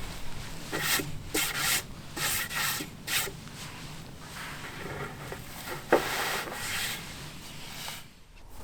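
A series of irregular scraping strokes, one or two a second, with a sharper knock about six seconds in.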